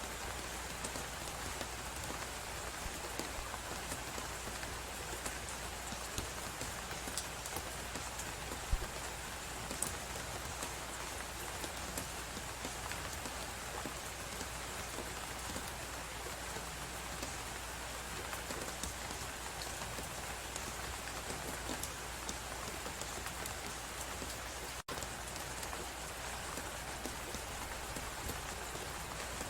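Fireplace crackling over a steady blizzard wind, with fine scattered crackles, one louder pop about nine seconds in, and a split-second dropout about 25 seconds in.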